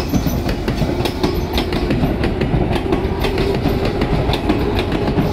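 Yellow electric commuter train passing close by, its wheels clattering over rail joints in repeated knocks over a low rumble, with a steady hum through the middle.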